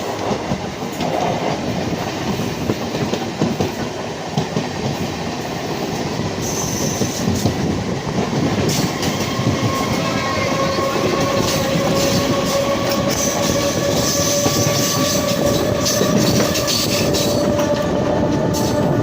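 Electric MEMU passenger train running on the track, its wheels clattering over the rails. A steady whine comes in about halfway through and rises slightly in pitch.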